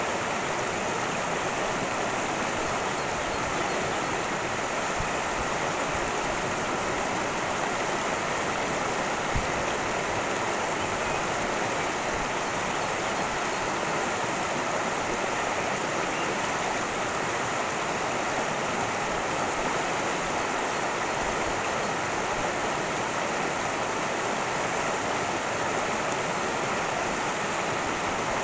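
Cascading creek water rushing and splashing over stones in a steady, even wash.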